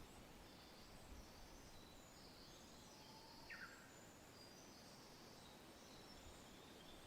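Faint birdsong over a soft, steady hush of wind, with scattered distant chirps and one clearer short downward-sliding note about halfway through.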